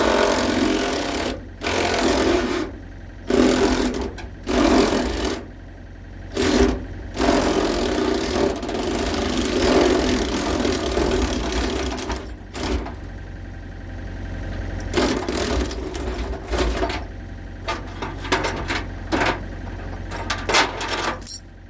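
Repeated bursts of rasping, scraping noise, each from half a second to a few seconds long, with a quick run of sharp knocks near the end, over a steady low hum.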